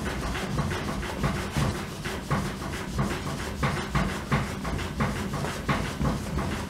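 Applicator pad rubbing cutting compound onto a canoe hull by hand, in quick regular back-and-forth strokes, about two to three a second.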